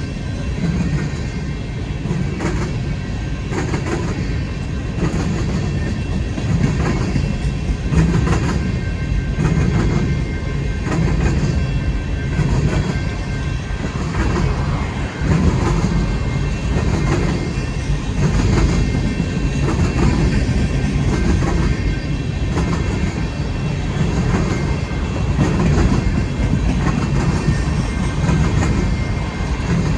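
Long freight train's cars rolling past close by: a steady heavy rumble of wheels on rail, with a regular clacking about once a second as the wheels cross rail joints.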